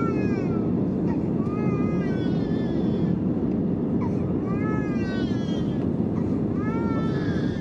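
Steady cabin noise inside a Lufthansa Airbus A320neo on its landing, with a baby crying in the cabin: short wailing cries that rise and fall in pitch, repeating about every second and a half to two seconds.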